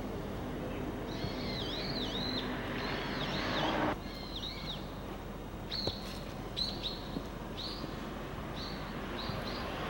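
Birds chirping, repeated short notes that dip and rise, in a run of calls. A rushing noise builds and cuts off suddenly about four seconds in, over a steady low hum.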